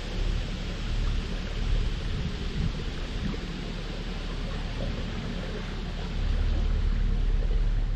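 Narrowboat engine running steadily under way, a low hum under a broad rush of wind buffeting the microphone, somewhat louder in the last couple of seconds.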